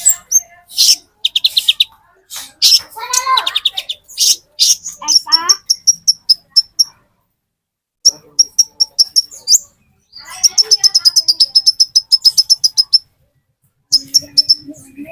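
Sunbird (konin) singing: bursts of rapid, high, sharp chirps and fast trills broken by short pauses. This is the kind of recording hobbyists play as a lure to set caged sunbirds singing.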